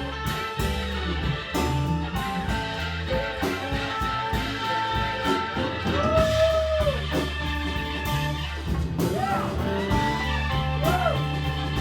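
A live band plays a slow blues with bass and drums. An electric guitar lead bends notes up and lets them fall back, twice in the second half.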